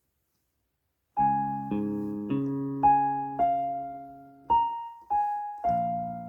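Yamaha PSR-E373 portable keyboard playing a slow melody on its Concert Grand Piano voice, with left-hand chords on a split lower voice (60s Clean). The playing starts about a second in, with a new melody note roughly every half second over held low chords.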